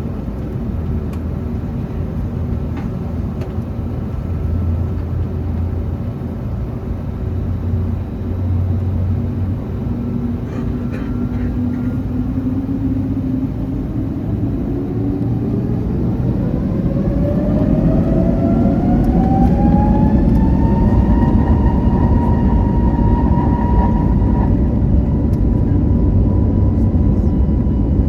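Airbus A321neo's turbofan engines heard from inside the cabin over a steady low rumble. About halfway through, the engines spool up in a rising whine and the sound gets louder, then the whine holds at a steady high pitch.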